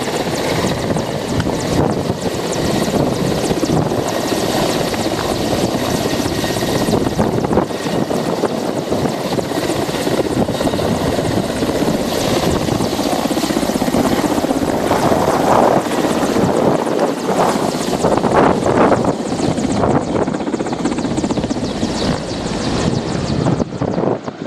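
Helicopter rotor and engines running loud and steady, close by, as the helicopter takes off.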